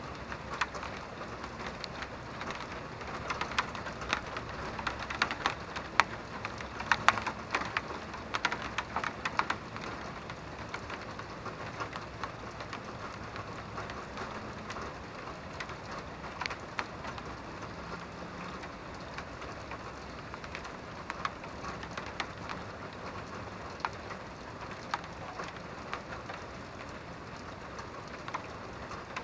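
Steady rain falling, with many sharp drops striking a nearby surface, heaviest during the first ten seconds.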